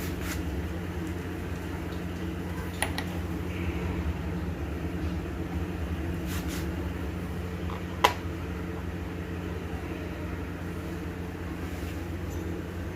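A few sharp clicks and knocks from a washing-machine wash motor and its parts being handled and seated into the mounting, the loudest about eight seconds in, over a steady low mechanical hum.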